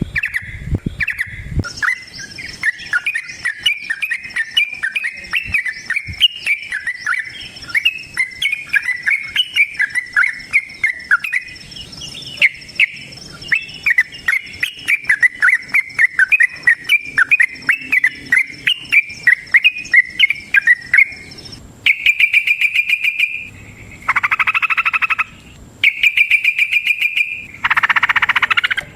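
Yellow-vented bulbul (trucukan) singing in a long, rapid run of quick, loud chirping phrases. Near the end it switches to four short buzzy trills of about a second each. A faint steady high whine sits behind the song for most of it.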